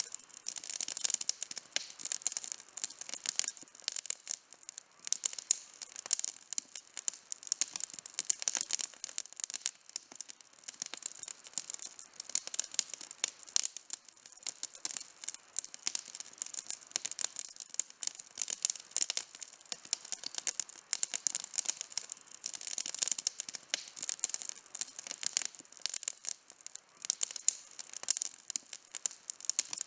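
Wood campfire burning with constant, irregular crackling and popping, many sharp snaps a second and no let-up.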